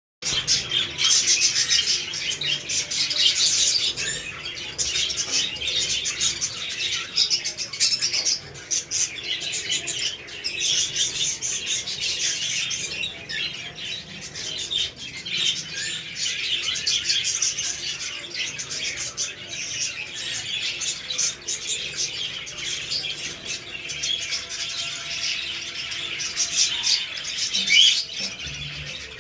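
Budgerigars chattering, a dense, unbroken stream of overlapping chirps and warbles.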